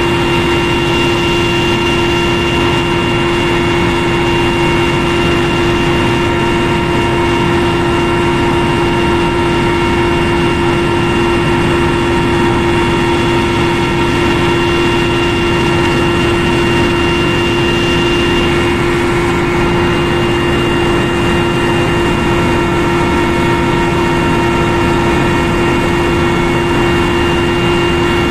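Military helicopter in flight heard from inside the cabin: a loud, steady rumble of turbine and rotor noise with constant whining tones on top. One of the higher whines fades about two-thirds of the way through.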